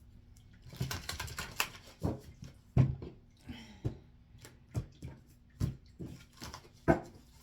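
Oracle card deck being shuffled by hand: a quick flurry of cards slapping and clicking together, then single sharp card snaps about once a second.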